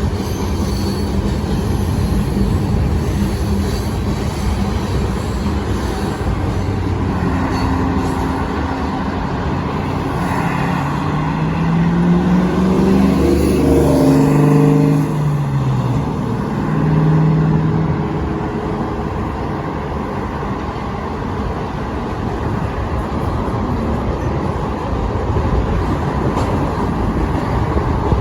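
Freight train rolling past with a steady rumble of wagons on the rails. About halfway through, an engine passes close, its pitch dropping as it goes by.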